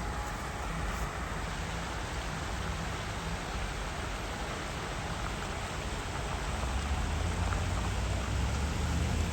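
Steady rushing of a swollen river. A low rumble, likely wind on the microphone, grows stronger in the last few seconds.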